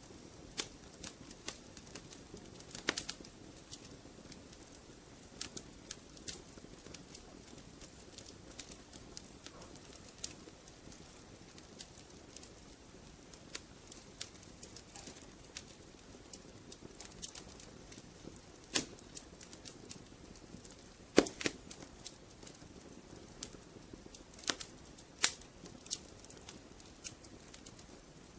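Fireplace fire crackling: irregular sharp pops and snaps over a soft steady hiss, with a few louder pops, the loudest about two-thirds of the way through.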